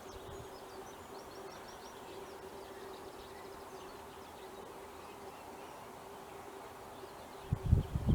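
Faint songbird calls, short high notes in quick series, over a steady hum at one pitch. Loud low rumbling thumps come in near the end.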